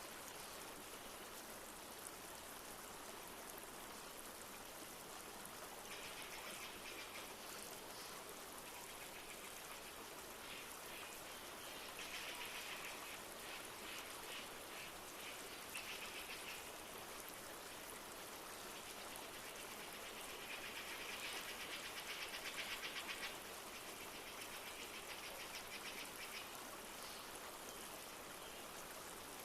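A river flowing steadily, with bird calls coming in several rapid trilling bursts lasting a second or more each, the loudest about two-thirds of the way through.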